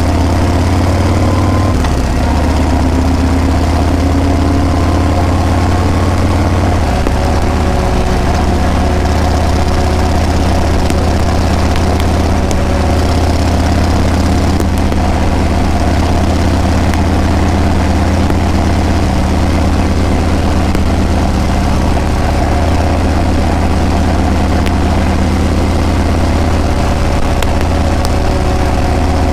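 Harley-Davidson Breakout's V-twin engine and exhaust running steadily with a deep, low note. The pitch shifts a little over the first several seconds, then holds even.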